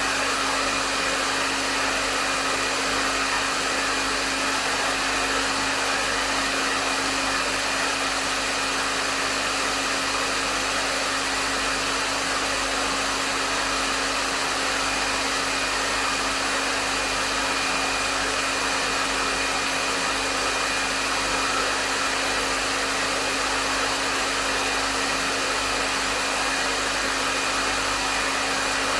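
Hair dryer running steadily on a medium setting: an even rush of air with a steady low motor hum and a faint high whine.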